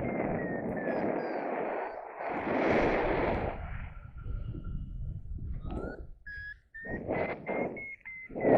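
Wind gusting against the microphone, dying down about halfway through and coming back in short puffs. A faint thin whistle-like tone glides in pitch over the wind, slowly rising near the end.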